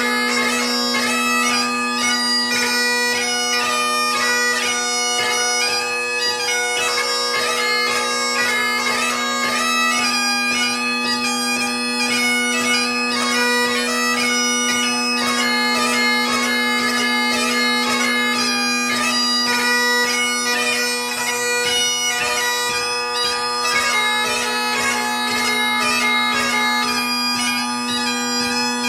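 Great Highland bagpipe played solo: the drones sound one steady low note under a fast chanter melody full of quick gracenote ornaments, as in a light-music competition tune.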